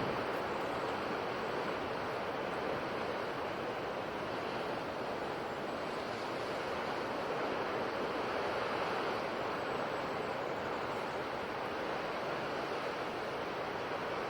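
Ocean waves washing onto the shore, a continuous rushing surf that swells and eases only slightly.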